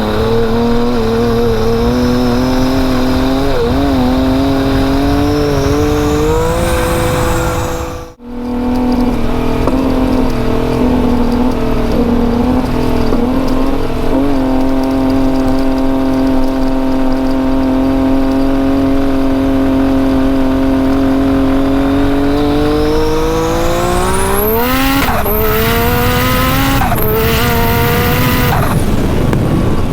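Turbocharged Yamaha YXZ side-by-side's three-cylinder engine running under way at a steady pitch, with a brief drop-out about a quarter of the way in. Near the end it revs up sharply, a high whine climbing with it, then the pitch shifts up and down a couple of times.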